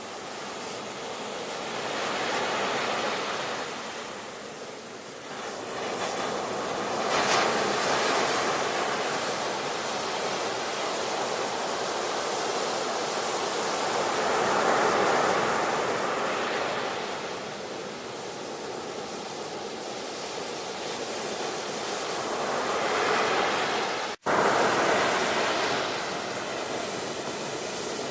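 Ocean surf: waves breaking and washing ashore in slow swells that rise and fall every several seconds. The sound cuts out for an instant about 24 seconds in and comes straight back.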